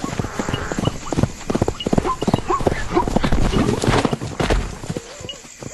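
Zebras galloping: rapid, irregular hoofbeats drumming on the ground, with a few short calls among them about two seconds in, the hoofbeats thinning out near the end.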